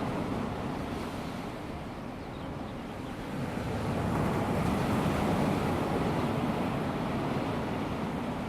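Small waves of a calm sea washing onto a sandy beach: a steady wash that eases off about two seconds in and swells again a couple of seconds later.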